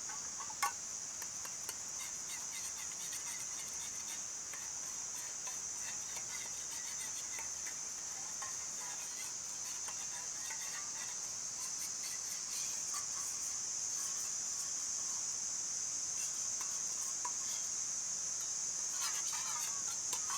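Insects droning steadily at a high pitch, with scattered short bird-like chirps, a cluster of them near the end, and one sharp click less than a second in.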